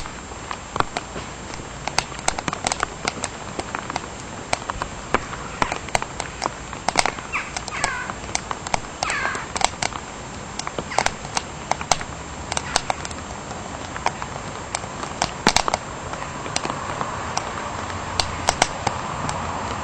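Wood fire crackling in a small wood-burning camp stove: irregular sharp pops and snaps, with a steady hiss building near the end.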